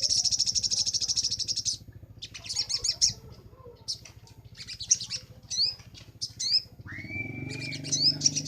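Little spiderhunter (sogok ontong) singing: a fast, loud trill of high notes, then scattered chirps and short rising-and-falling notes, with the rapid trill starting again near the end.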